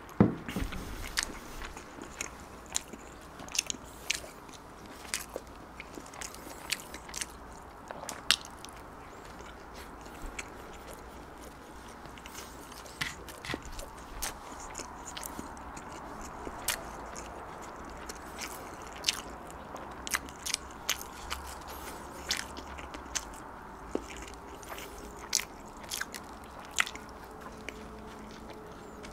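Close-miked chewing and biting of soft bread, with many small sharp mouth clicks scattered throughout. A single loud thump comes right at the start.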